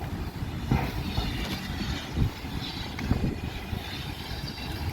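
Train running on the track: a steady low rumble with a few short knocks.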